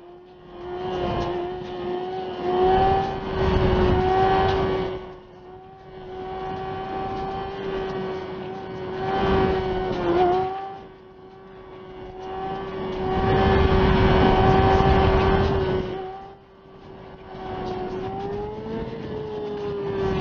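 Motorcycle engine running at steady high revs with wind rushing in surges. The engine dips briefly about halfway through, then its pitch rises and falls near the end.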